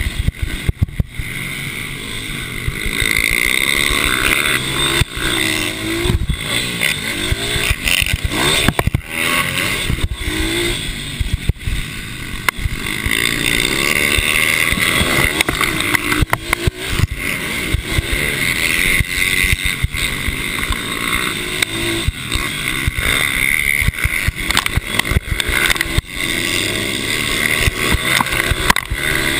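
Small racing motorcycle engines on track, rising and falling in pitch over and over as the bikes accelerate and back off through the corners.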